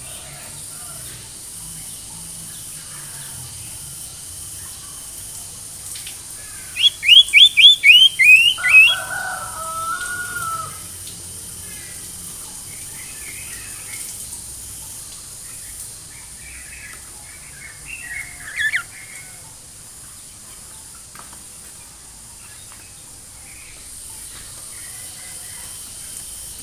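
Sirtu bird singing: a quick run of about seven loud, downward-sliding whistles, then lower chattering notes, followed later by a few softer calls. The song is a lure recording meant to prompt a caged sirtu that is slow to sing. A faint steady high hiss lies underneath.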